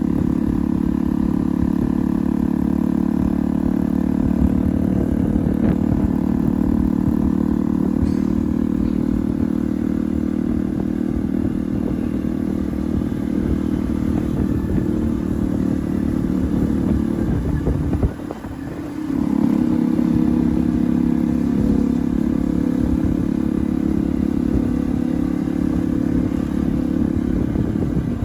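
Bajaj Pulsar NS200's single-cylinder engine running through an aftermarket Akrapovic exhaust: a steady, loud drone at an even pitch that dips briefly about eighteen seconds in and then picks up again.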